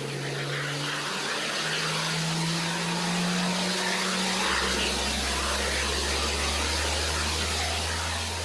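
Jet aircraft engines running: a steady rush of noise with a tone that rises slowly, joined about halfway through by a deeper drone.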